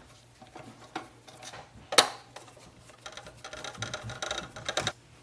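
Hard plastic and metal printer parts being handled as the circuit board is taken out: a sharp knock about two seconds in, then a light clatter of small clicks and rattles near the end.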